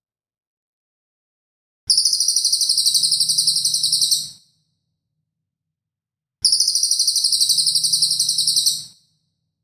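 A songbird's sharp, rapid, very high-pitched pulsed call, the 'tembakan' (shot) call used in bird-training recordings, heard twice, each burst lasting about two and a half seconds, with dead silence between them.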